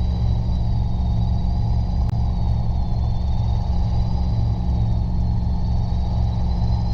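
Robinson R22 helicopter in flight, heard in the cabin: its engine and rotor give a steady, evenly pulsing low drone with a thin high whine over it. One short click about two seconds in.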